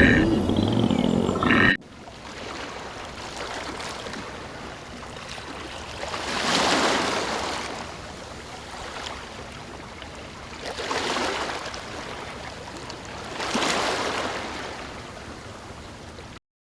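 A loud animal sound cuts off abruptly about two seconds in. After it comes a sleeping animal's slow, noisy breathing or snoring: three breaths three to four seconds apart, each swelling and fading.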